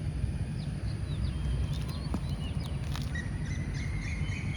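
Outdoor ambience: a steady low rumble with scattered short bird chirps over it, and a thin steady high tone joining about three seconds in.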